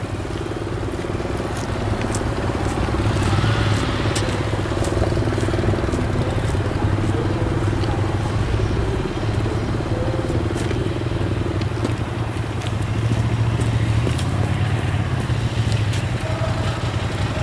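Motorcycle engine running steadily at low revs, rising and falling slightly as it is ridden slowly, with scattered small clicks over it.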